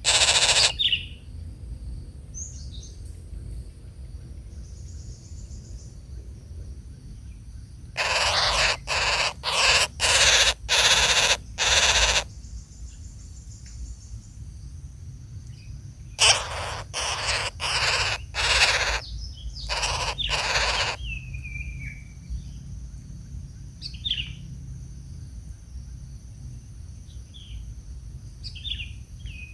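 Harsh, rasping bird calls in two bouts of about five loud calls each, with short high chirps from smaller birds between them.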